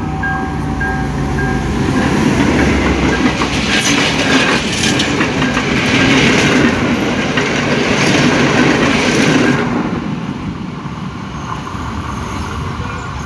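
Sri Lanka Railways M2 class diesel-electric locomotive and its coaches passing close by. The engine drones as it comes past, and then the wheels clatter over the rails, loudest through the middle and fading as the train moves away. In the first second or two, a repeating warning tone from the level crossing signal is heard before it stops.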